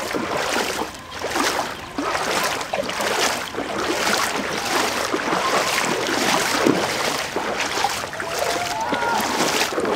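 Continuous sloshing and splashing of legs wading through knee-deep floodwater in a street, irregular and steady throughout. A brief distant voice is heard near the end.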